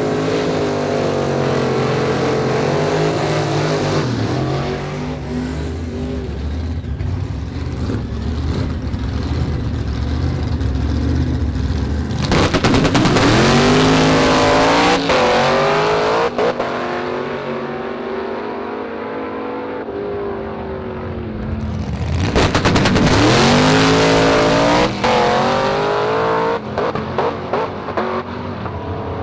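Drag race car engines revving up and down, with two louder stretches of hard acceleration, one a little before halfway and one about three quarters of the way in.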